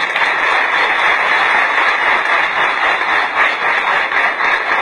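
Large audience applauding, a dense steady clapping of many hands.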